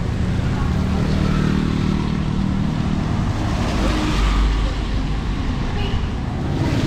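A motor vehicle's engine running close by, with a low hum that swells about four seconds in.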